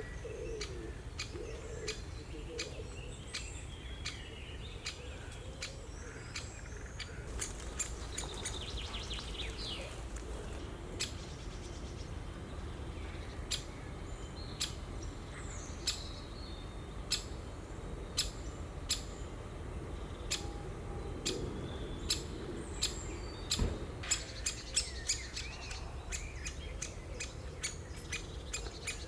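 Great spotted woodpecker giving sharp single ticks at irregular intervals, more frequent and louder in the second half, with other small birds chirping behind.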